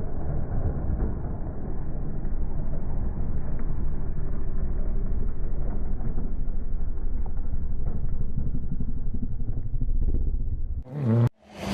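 Rally car at speed on a stage: a steady, muffled low rumble of engine and road noise. It dips away near the end, then a short sharp burst sounds across the whole range.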